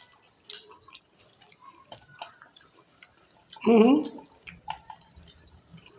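Two people chewing crisp gram-flour-battered fried snacks close to the microphone: scattered small crunches and wet mouth clicks, with a brief burst of voice about two-thirds of the way through.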